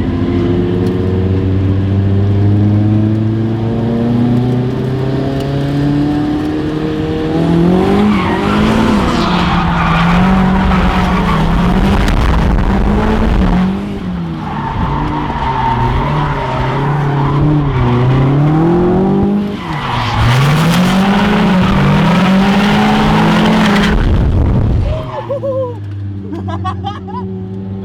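Turbocharged KA24DE-T four-cylinder drift car accelerating hard, then revving up and down again and again with tires squealing while drifting. About 25 seconds in, the engine falls to a lower, quieter run.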